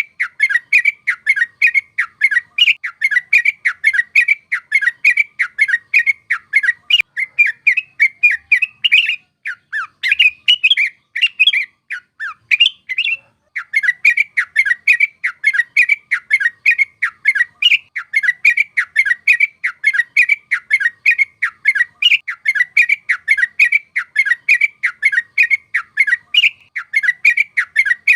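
Yellow-vented bulbul (trucuk) singing a fast, unbroken run of chattering notes, about four a second. About ten seconds in the phrases turn irregular with short pauses, then the rapid run resumes.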